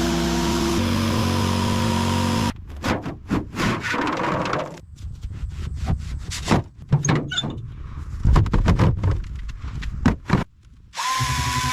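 Background music, broken off about two and a half seconds in by a stretch of irregular clicks, knocks, thuds and scrapes of small hard parts being handled and worked on. The music returns near the end.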